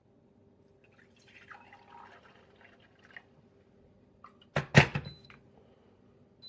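Electric kettle handled and set down on its base with a sharp clunk, followed by two short high beeps from the kettle's base.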